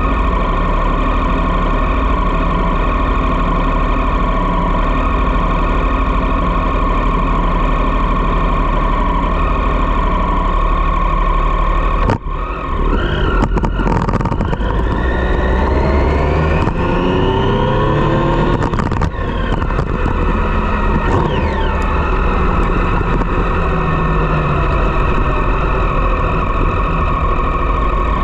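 Triumph Street Triple's three-cylinder engine through a Dominator GP aftermarket exhaust, running steadily for about twelve seconds, then breaking off suddenly and pulling away in a series of rising revs that drop back at each gear change.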